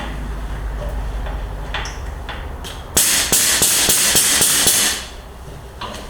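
A few light knocks and clicks, then an aerosol spray can hissing loudly for about two seconds.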